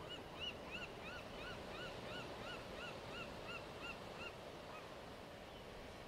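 A bird calling: a run of about fourteen short notes that rise and fall, roughly three a second, fading out near the end. Steady wind and surf noise runs underneath.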